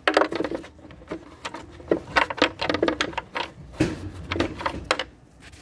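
Irregular clicks and knocks of hand tools and parts being handled while dismantling a car's battery tray area, dying down near the end.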